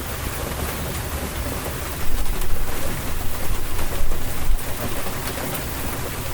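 Rainstorm: steady rain falling, with a low rumble of thunder swelling from about two seconds in to about four and a half seconds.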